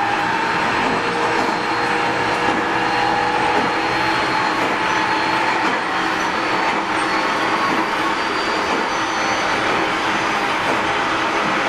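Tobu Series 30000 electric train running between stations, heard from inside the passenger car: steady rolling noise of wheels on rail with faint, nearly level tones from its Hitachi IGBT-VVVF traction equipment.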